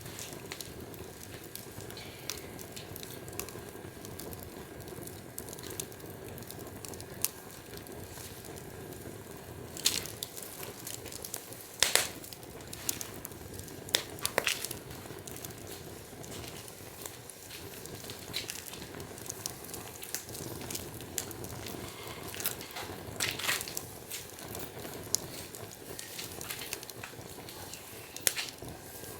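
Wood fire burning steadily with irregular crackles, including a few loud sharp pops around the middle.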